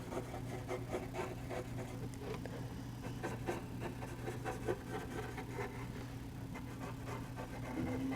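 Small dry flat paintbrush brushed back and forth over charcoal on textured charcoal paper: quick, soft, irregular scratchy strokes, blending the charcoal. A steady low hum runs underneath.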